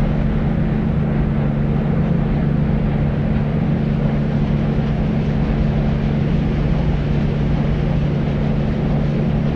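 Deep white noise for sleep: a steady, unchanging rushing noise weighted toward the low end, with a constant low hum running through it.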